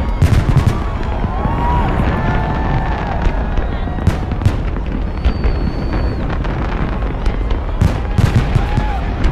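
Fireworks going off in rapid succession over a continuous low rumble of booms. Clusters of sharp cracks come just after the start, again about four seconds in, and again around eight seconds in.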